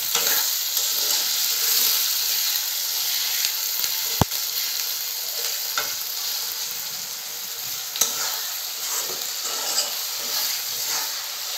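Sliced onions, garlic cloves and whole spices sizzling in hot oil in a metal karahi while being stirred with a metal spatula, the onions frying soft. A sharp click about four seconds in and another near eight seconds.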